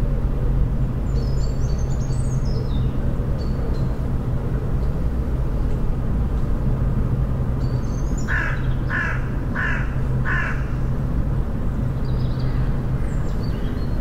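A bird calls four times in an even series, about two-thirds of the way through, over short high bird chirps and a steady low rumble.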